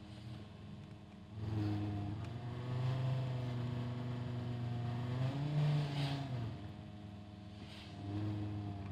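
Car engine heard from inside the cabin, idling, then pulling harder about a second and a half in as the car creeps forward in stop-and-go traffic. Its note rises and falls, drops back toward idle, and swells briefly once more near the end.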